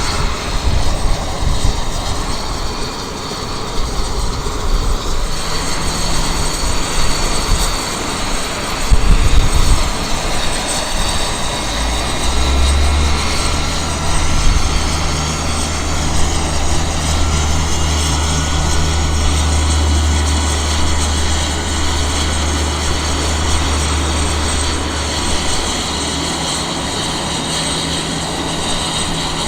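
Cessna Citation X business jet's turbofan engines running, a steady whine. Wind rumbles on the microphone in the first ten seconds, and a low drone joins about twelve seconds in and fades near the end.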